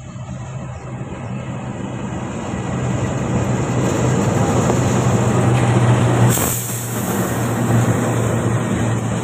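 Diesel-electric locomotive passing close by, its engine drone growing louder as it comes alongside, followed by its passenger coaches rolling past on the rails. A brief sharp burst of noise comes about six seconds in.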